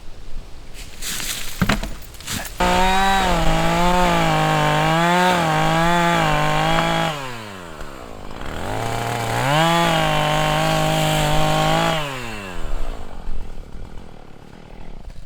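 Two-stroke chainsaw run at full throttle through a log, its pitch wavering as the chain loads up in the wood, then released with a falling whine about seven seconds in. It is revved up again for about three seconds and released again near the end, with a few knocks just before the first cut.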